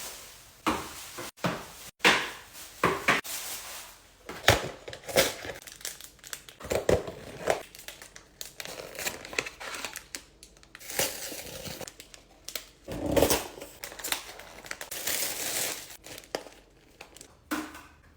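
Grocery packaging crinkling and tearing, with frequent short knocks and rustles as items are handled and set down.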